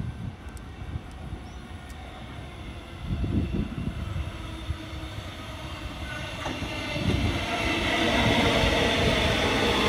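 Electric suburban train approaching on the rails. Its running noise and a whine of several steady tones grow steadily louder over the last few seconds.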